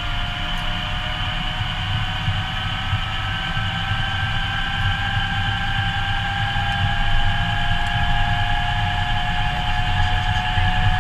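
Helicopter engine and rotor running up on the ground before take-off: a steady whine that rises slowly in pitch over a low, fluttering rotor beat, growing slightly louder.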